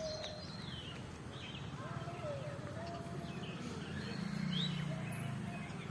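Several birds chirping and calling over one another: short high chirps and sweeps mixed with lower wavering calls.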